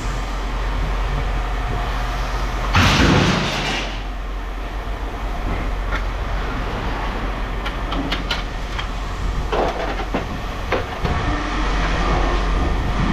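Steady low engine rumble, with a loud clatter lasting about a second, three seconds in, and scattered knocks and clanks later.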